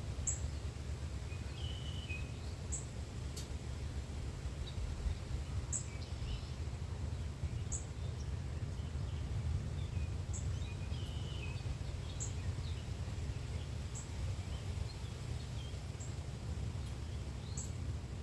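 Birds chirping: short, very high chirps repeating about once a second, with a few lower chirps now and then, over a steady low rumble.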